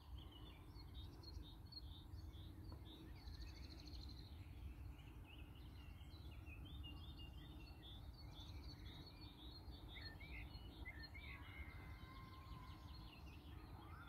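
Faint birdsong: several small birds chirping and twittering in quick short notes, over a low steady background rumble.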